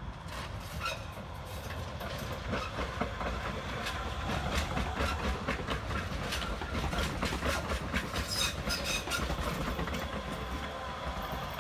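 RBS metre-gauge electric commuter train passing close by, its wheels clicking repeatedly over the rail joints and switches over a steady running rumble. It grows louder as it approaches, with the clicking thickest as the cars go past.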